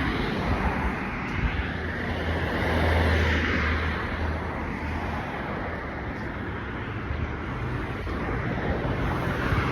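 Road traffic: cars passing close by on a busy road, the noise of engines and tyres swelling as a car goes by about three seconds in, and again near the end.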